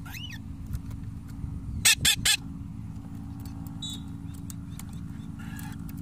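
A bird gives three loud calls in quick succession about two seconds in, after a short rising-and-falling chirp at the start, with a few faint chirps later. A steady low rumble runs underneath.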